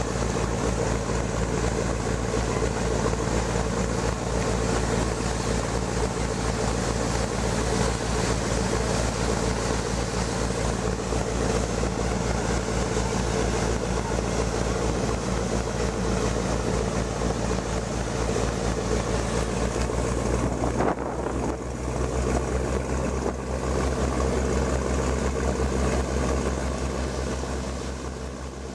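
Passenger ferry's engines running with a steady drone and water and wind hiss. The engine note changes about 21 seconds in, with a deeper hum, and the sound fades out at the end.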